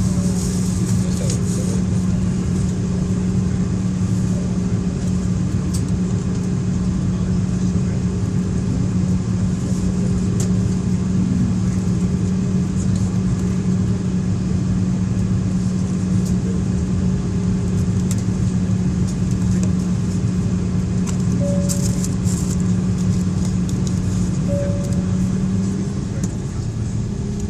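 Jet airliner cabin noise before takeoff: a steady drone with a constant low hum and light rattles.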